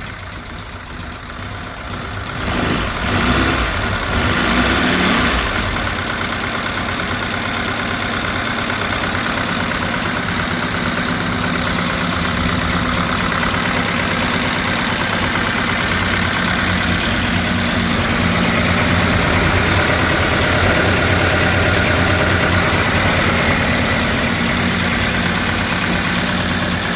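Tuned Austin Seven four-cylinder side-valve engine with a newly commissioned HIF carburettor, running on its first start after installation. It swells louder for a few seconds near the start, then settles into steady running.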